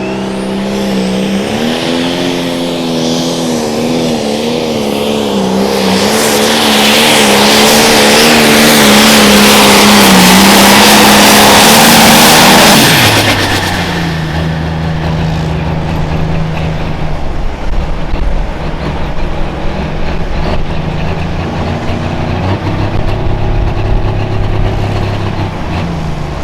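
Turbocharged diesel pro stock pulling tractor at full throttle under load, its engine pitch wavering and the sound growing louder for about twelve seconds. About halfway through the throttle is cut and the engine falls sharply to a lower, steady run, marking the end of the pull.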